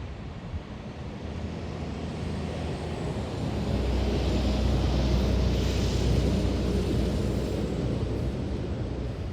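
A passing vehicle's steady rumble and hiss, growing louder over the first few seconds, loudest in the middle, then fading.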